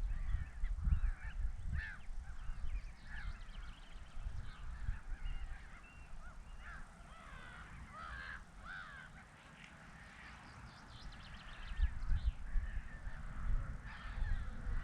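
A flock of birds at a lake calling, many short overlapping honking and chattering calls. A low rumble runs beneath them, heavier at the start and near the end.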